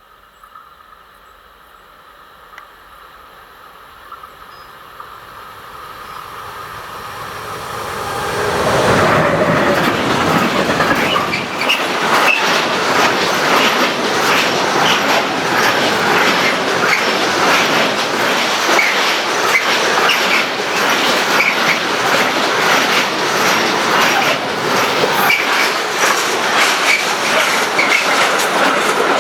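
A train approaching, growing steadily louder over about nine seconds, then passing close by for the rest of the time: a continuous rolling rumble with rapid wheel clicks over the rail joints and some wheel squeal.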